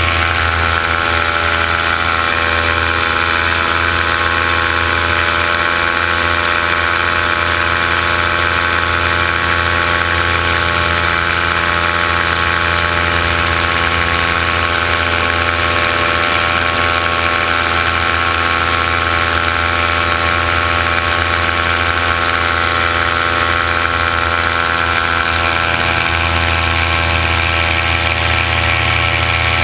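Multirotor drone's electric motors and propellers humming steadily in flight, a constant buzz with a high whine over it.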